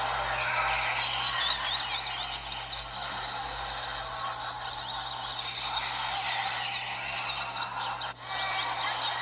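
Many double-collared seedeaters (coleiros) singing at once in a roda, a dense overlapping chatter of quick, sharply sliding notes. The song drops out briefly about eight seconds in.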